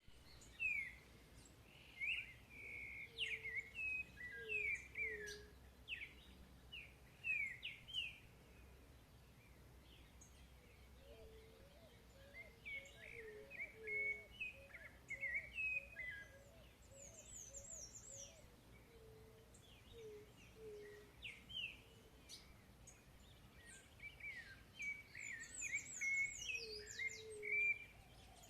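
Several birds singing: bursts of quick, sliding chirped phrases with a few higher trills, and a lower whistled note repeated in runs underneath.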